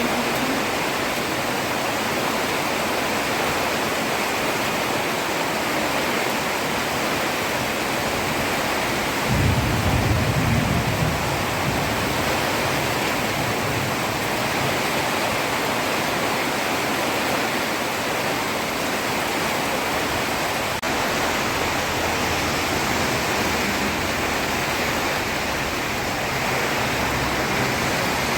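Heavy rain falling on a road, a steady hiss, with a brief low rumble about nine seconds in.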